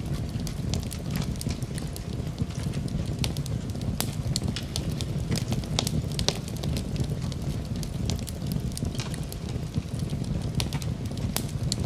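Wood fire in a fireplace crackling and popping, with irregular sharp snaps over a steady low rumble.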